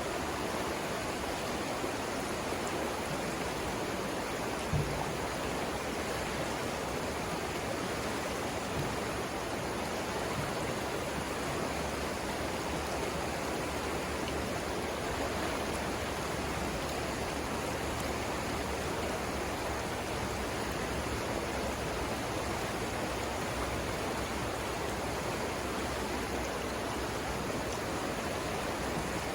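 The Savannah River rushing steadily over its rapids, a continuous even wash of flowing water. There is one brief low thump about five seconds in.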